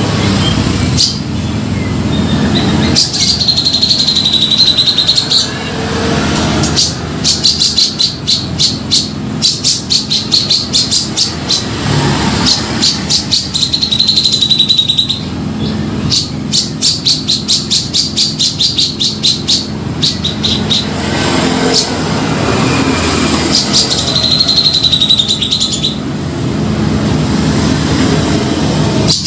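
Cucak jenggot (grey-cheeked bulbul) singing in full voice, with held warbling phrases on a high pitch alternating with long, quick, even runs of sharp repeated notes, over a low steady background hum.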